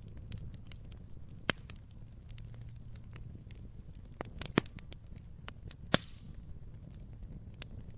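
Wood fire crackling: a steady low rumble of flames with scattered sharp pops, the loudest about one and a half, four and a half and six seconds in.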